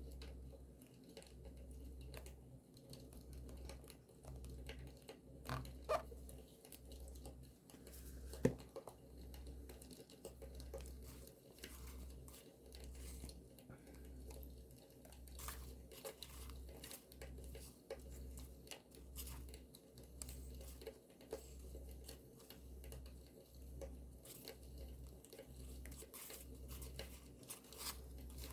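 Campfire crackling, with scattered small pops and two louder snaps, mixed with soft paper handling: rustling and tearing.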